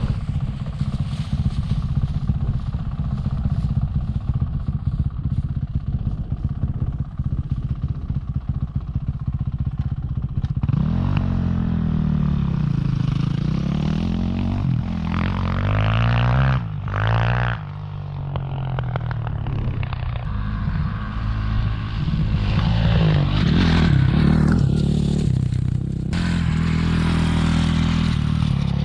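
Dirt bike engine running steadily, then revving up and down repeatedly from about a third of the way in, with a brief drop in the engine note about two-thirds through.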